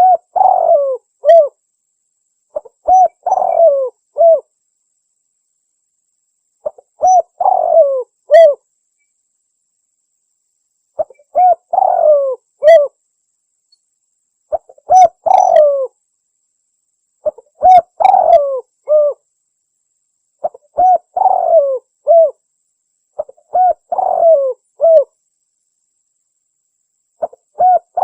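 Spotted dove (tekukur) cooing, played as a hunting lure call: a phrase of three or four coos repeated about every three to four seconds, each phrase begun by a short click.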